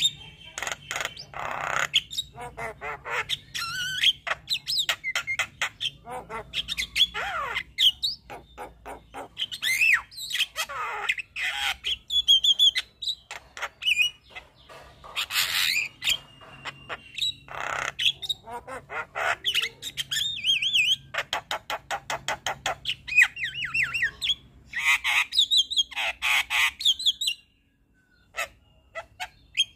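Javan myna singing a long, varied medley of whistled notes, harsh squawks and rapid rattling clicks, with a short pause near the end.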